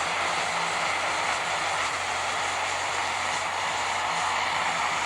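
Super stock pulling tractor's turbocharged diesel engine running flat out under load down the track, a steady, unbroken din.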